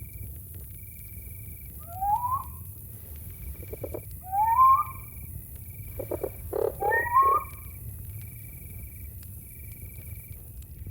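A night animal gives three loud rising calls a couple of seconds apart, with some coarser pulsed notes between them. Behind them, crickets chirp in steady high-pitched bursts over a low rumble.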